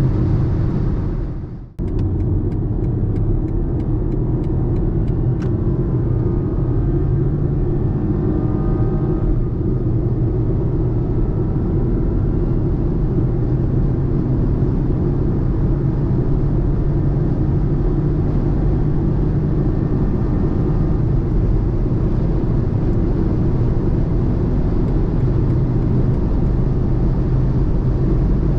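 BMW F40 118i's 1.5-litre three-cylinder turbo engine running at speed, with steady tyre and road rumble. There is a brief dip about a second in.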